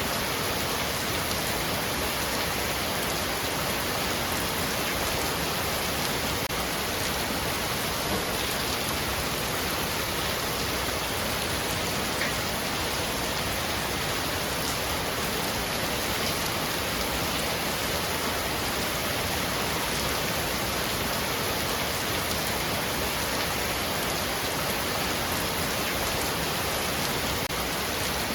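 Heavy rain falling steadily on a roof, an even hiss with a few faint drop ticks.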